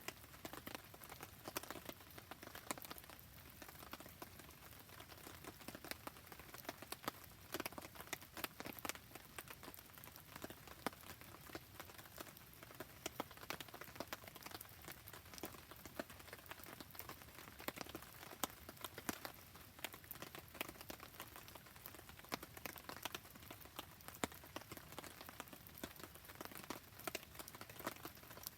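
Steady rain pattering in dense, irregular drops, mixed with the crackle of a wood campfire.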